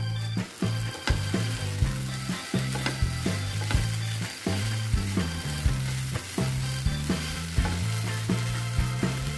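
Okra frying and sizzling in oil in a shallow pan as it is stirred with a spatula, under background music with a steady beat.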